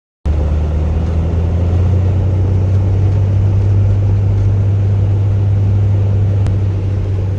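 Steady low drone of a vehicle driving, engine and road noise, starting suddenly a moment in.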